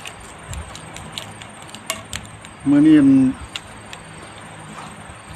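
Steady high-pitched insect trill with a regular pulse, with a few scattered light clicks and taps over it.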